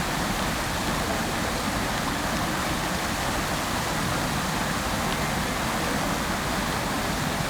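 Fountain water splashing in a steady, unbroken rush.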